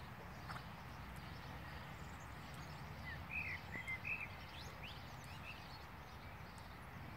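Steady outdoor background noise with a few short bird chirps about three to four seconds in.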